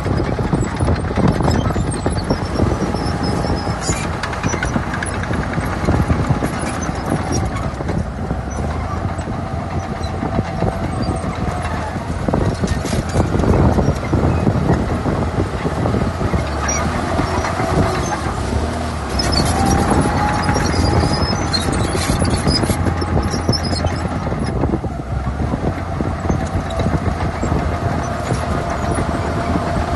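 Heavy diesel earthmoving machinery working: a steady low engine rumble with scattered metal clanks and faint squealing.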